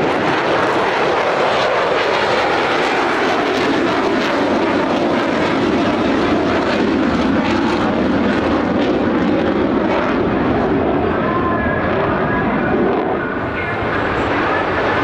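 Jet noise from F-35A fighters passing in a formation flypast, a steady loud roar of single-engine Pratt & Whitney F135 turbofans. The sound dips briefly near the end before rising again.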